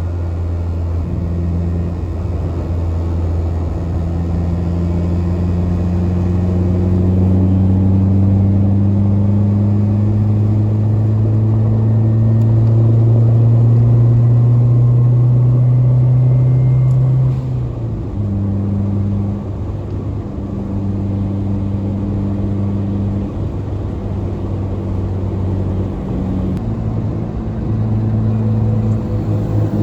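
Turbocharged Honda Civic's engine running under way. Its pitch climbs slowly for about seventeen seconds, drops suddenly, holds steady, then rises again near the end.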